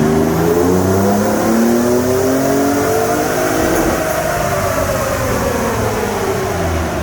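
Ford Raptor Shelby Baja's twin-turbo EcoBoost V6 making a full-throttle dyno pull. The pitch climbs steadily for about three and a half seconds, then falls away as the truck coasts down on the rollers.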